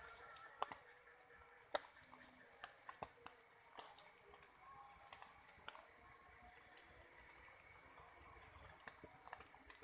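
Scattered, irregular drips and taps of water, faint, over a steady high-pitched background hum of calling insects.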